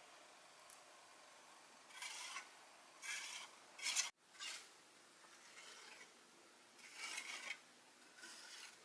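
A tool scraping or rubbing across a surface in about six short strokes, each roughly half a second long.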